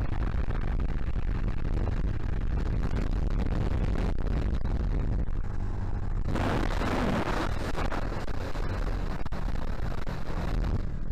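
Vitacci GTX 250 EFI motorcycle engine running with a steady low rumble, with a loud rush of wind on the microphone about six seconds in.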